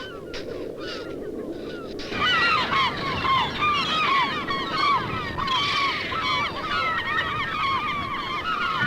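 A large flock of birds calling, many short calls overlapping. The calls are fainter over a low rushing noise at first, then cut suddenly to a louder, denser chorus about two seconds in.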